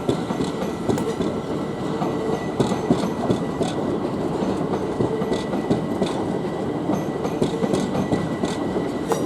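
Class 387 Electrostar electric multiple unit departing, its wheels clattering over rail joints and points in a steady, dense run of clicks, with a faint steady high whine.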